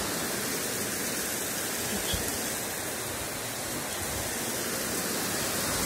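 Heavy downpour: a steady, even hiss of rain pouring down and water running off.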